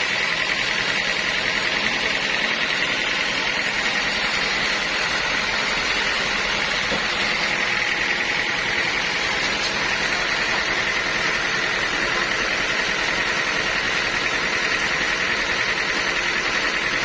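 Sawmill saw running steadily: a constant high-pitched whine over a low machine drone, unchanging throughout.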